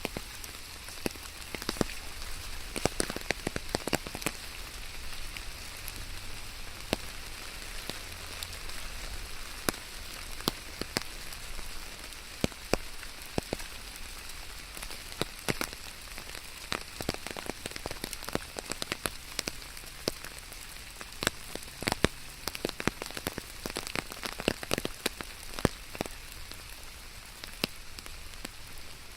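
Steady rain falling, an even hiss with many sharp, irregular drop impacts close by.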